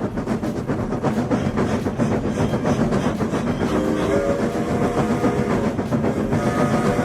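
Train running on the rails with a fast, continuous clickety-clack. A horn sounds a chord of several steady tones for about two seconds midway, and another sustained tone starts near the end.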